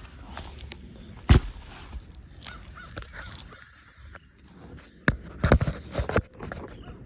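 Several sharp knocks and thumps from handling gear on a shingle roof: one about a second in, then a quick cluster of four between five and six and a half seconds in. Short bird calls sound faintly in the background.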